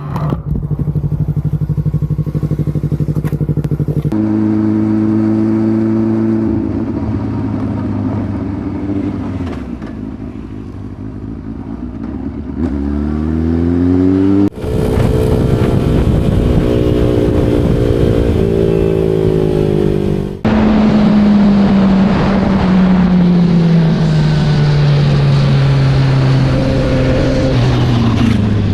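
Motorcycle engines running while riding, in several clips cut together: the pitch holds steady, climbs as the engine revs up about two-thirds of the way in, then falls slowly over the last several seconds as the bike slows.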